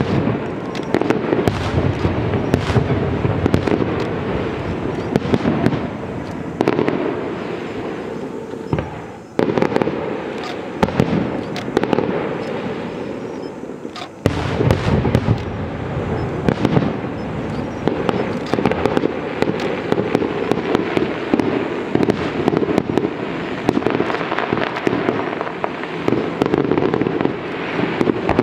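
Fireworks display: a dense, continuous barrage of bangs and crackles, easing briefly about nine seconds in and again about fourteen seconds in.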